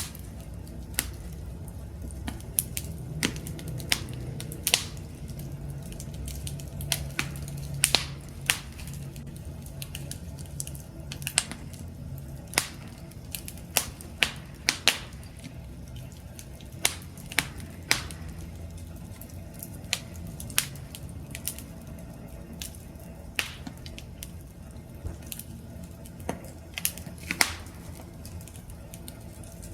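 Wood campfire crackling: irregular sharp pops and snaps, roughly one or two a second, over a low steady rumble of burning.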